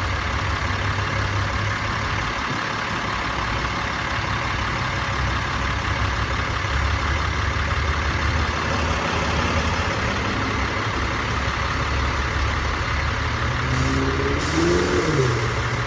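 Heavy truck's diesel engine running steadily amid traffic noise, with a short burst of air hiss near the end.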